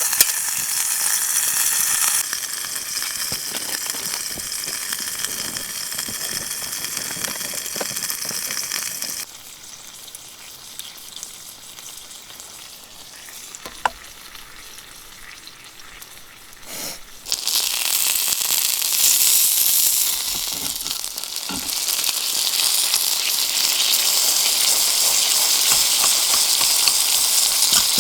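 Food sizzling in a hot pan over a campfire: a steady frying hiss that drops away about nine seconds in and comes back louder about seventeen seconds in.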